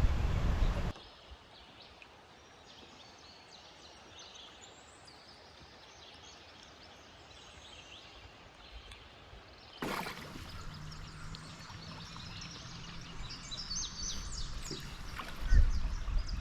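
Quiet outdoor ambience with small birds chirping. Wind buffets the microphone with a low rumble in the first second and again briefly near the end, and the ambience jumps louder about ten seconds in.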